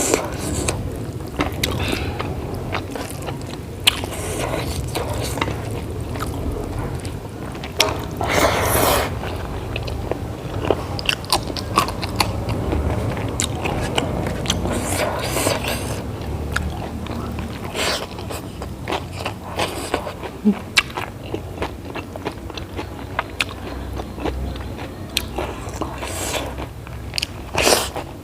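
A person chewing and biting food close to the microphone: wet mouth clicks and smacks, with louder crunchy bites about eight, fifteen and twenty-six seconds in.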